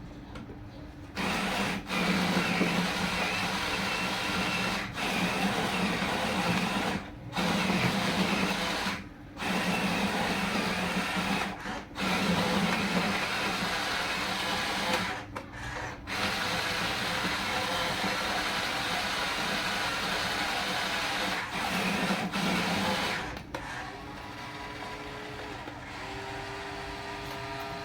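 Small electric motors and gearboxes of a radio-controlled toy construction vehicle whirring in stretches, stopping briefly several times as the controls are released. Near the end the whir drops to a softer running with a few steady tones.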